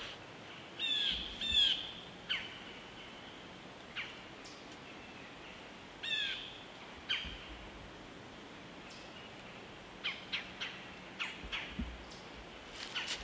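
Wild woodland birds calling: short harsh calls, a pair about a second in and another around six seconds, brief sharp chips scattered between, and a quicker run of chips in the last few seconds.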